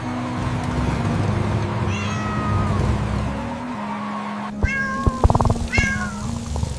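A cat meowing three times in short calls that fall in pitch, over background music, with a quick run of clicks near the middle.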